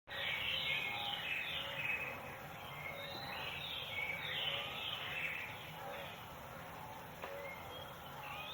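Several songbirds chirping and calling together: many short, repeated notes overlapping, busiest in the first half and thinning out towards the end, over a steady outdoor background hiss.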